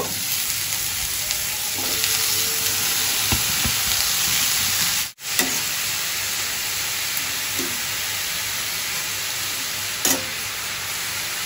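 Shredded bottle gourd sizzling in hot oil in a metal kadai as it goes in and is stirred with a flat metal spatula: a loud, steady frying hiss with a few scrapes and a sharp knock of the spatula on the pan about ten seconds in.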